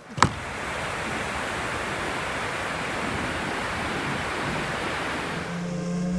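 A short click, then a steady rushing noise with no tone in it. Near the end it gives way to a motor hum that stays at one pitch.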